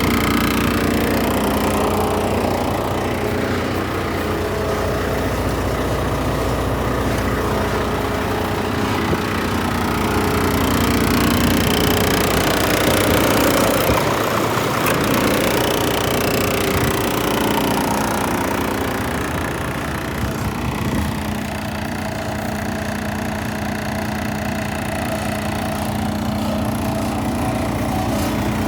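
Volvo VNL 860 truck tractor's D13 diesel engine running at a steady idle.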